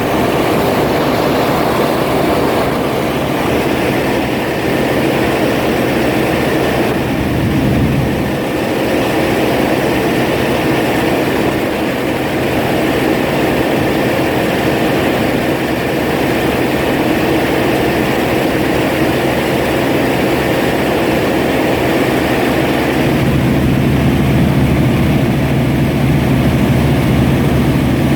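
New Holland TX34 combine harvester running steadily under load, a heavy engine drone with the whir of its machinery. About 23 seconds in, the low drone grows a little louder.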